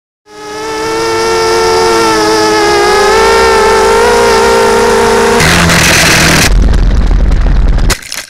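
FPV quadcopter's electric motors and propellers running with a steady multi-tone whine, the pitches wavering slightly. About five and a half seconds in it gives way to a rush of noise and then a heavy low rumble, which cuts off abruptly near the end.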